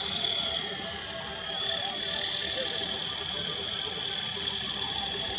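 High-pitched whine of the Wltoys V915-A Lama RC helicopter's small brushed main and tail motors running, steady, with a slight dip and rise in pitch about one and a half seconds in.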